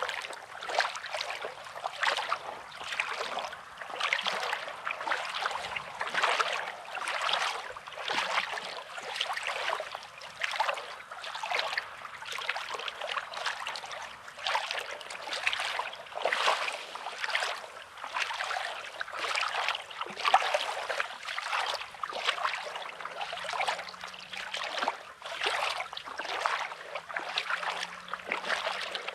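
Small sea waves washing on a pebbly sand shore, with evenly paced crunching footsteps on the rocky sand, about one and a half steps a second.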